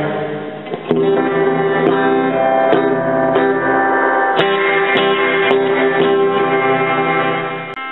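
Electric guitar played through a Roland Jazz Chorus combo amp, a run of picked notes and chords that ring on and fade out near the end.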